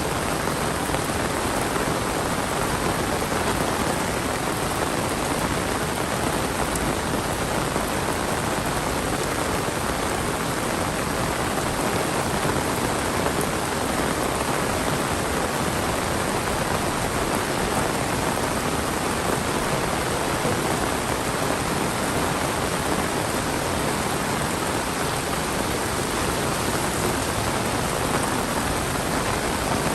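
Heavy monsoon rain falling steadily, a dense, even hiss of downpour on surfaces.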